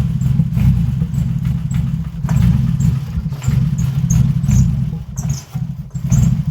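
2005 Toyota Highlander engine running roughly and unevenly, misfiring on only three cylinders because of fouled spark plugs.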